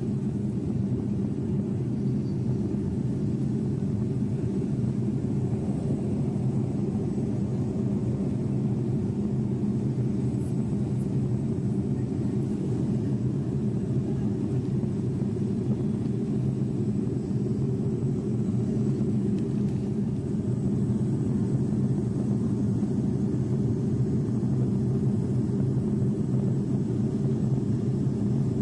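Steady low drone of an airliner in flight, heard from inside the cockpit through a mobile phone recording; it grows slightly louder in the last third.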